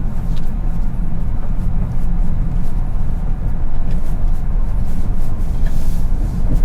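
A car driving along at steady speed: a continuous low rumble of engine and road noise.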